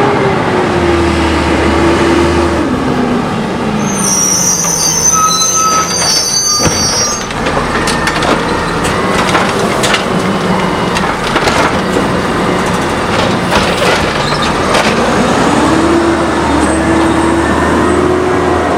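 Compressed-natural-gas automated side-loader garbage truck working. Its engine drops in pitch early on and speeds up again near the end, with a high metallic squeal from about four to seven seconds in and a run of clanks and knocks through the middle.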